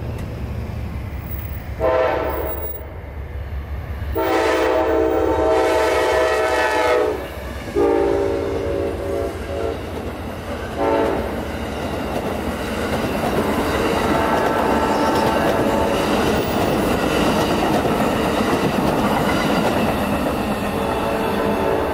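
Amtrak Silver Meteor passenger train's locomotive horn sounding for a grade crossing: a short blast, two long blasts, then a short one about eleven seconds in. The train then rushes through the crossing with a steady clatter of wheels on rail.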